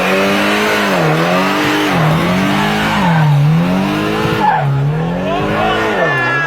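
Motorcycle engine running at high revs, its pitch dipping and climbing back about once a second as the throttle is repeatedly eased off and opened again.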